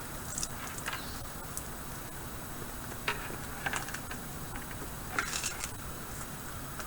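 Outdoor ambience: a steady low wind rumble on the microphone, with a few brief high clicks or chirps scattered through, clustered around three and five seconds in.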